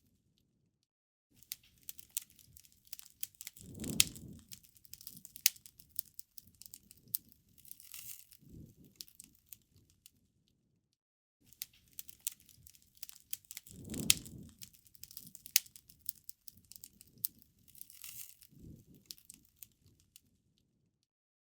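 Wood fire crackling quietly with scattered sharp pops and snaps, in two near-identical stretches of about nine seconds, each starting after a brief silence.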